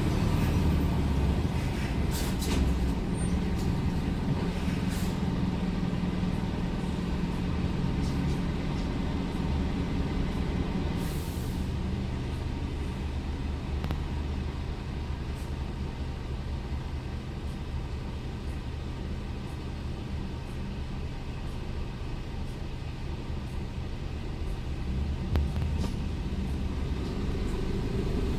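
Scania R410 truck's six-cylinder diesel engine running steadily, heard from the cab. It settles lower through the middle and builds again near the end, with a short hiss of air about eleven seconds in.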